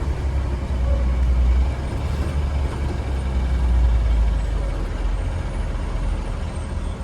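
2015 Blue Bird Vision school bus under way: a steady low engine and road rumble, a little heavier in the first half and easing slightly toward the end.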